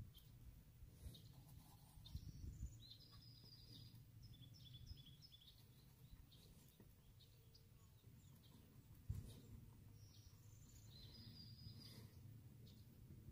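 Faint birdsong outdoors: two spells of short, high chirping phrases over a low rumble, with one sharp knock about nine seconds in.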